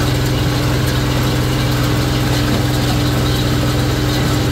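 Farm tractor engine running steadily at an even speed, a constant loud hum.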